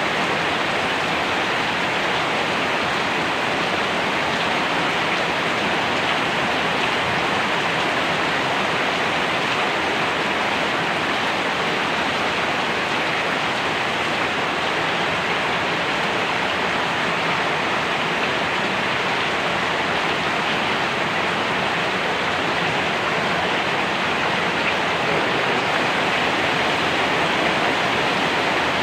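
Steady rain falling, an even unbroken hiss with no distinct drops or thunder standing out.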